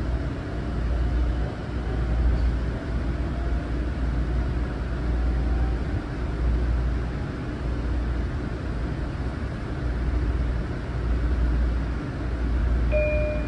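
Ride noise inside a moving LIRR M9 electric train: a steady low rumble of the car running on the track, with a faint whine that rises slowly in pitch. A brief electronic tone sounds near the end.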